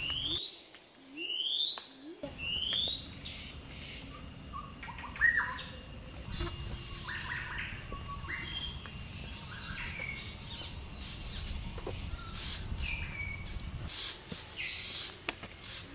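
Forest birds calling: a rising call repeated about once a second near the start, then a scatter of short chirps and calls at different pitches, over a low steady rumble.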